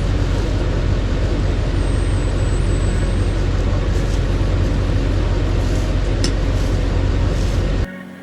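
Duramax diesel V8 pickup engine running steadily with a deep, even rumble, cutting off abruptly near the end.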